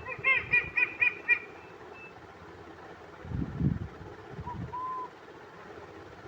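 Owl calls: a quick run of about six clear, high notes in the first second and a half, then a short low sound, and about four and a half seconds in two brief whistled hoots, the second longer.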